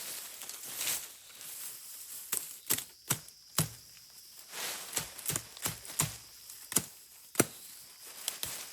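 A series of sharp, irregularly spaced knocks and cracks, about a dozen, with light rustling between them.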